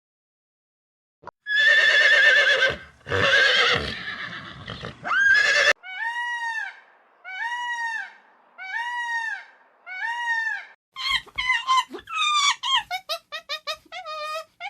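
A series of animal calls, beginning with a horse whinnying for about four seconds in a loud, wavering call. Five evenly spaced arching calls of about a second each follow, then a quick run of short falling calls near the end.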